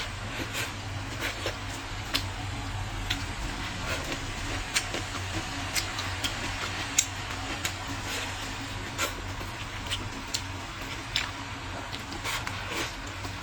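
A person eating braised pig's trotters: chewing and mouth sounds with irregular sharp clicks, over a steady low hum.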